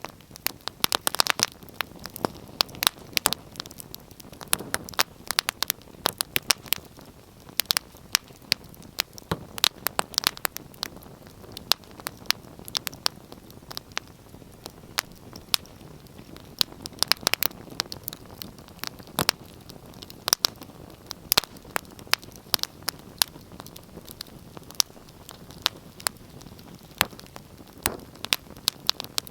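Wood fire burning in a fireplace: irregular sharp crackles and pops, several a second, over a faint steady hiss of the flames.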